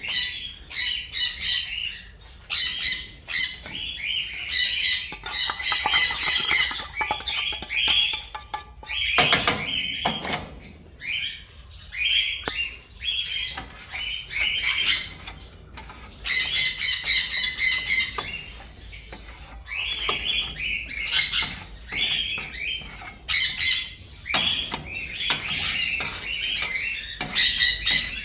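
Parrots squawking, a run of harsh, shrill calls that come in clusters with short gaps between them.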